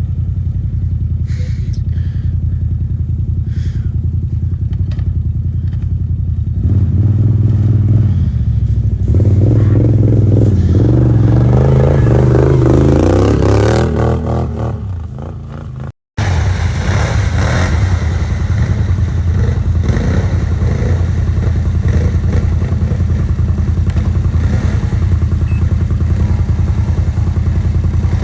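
Can-Am 850 XMR ATV's V-twin engine running, revving up about six seconds in and held high with wavering revs, then easing back down. After a brief cut it runs steadily again.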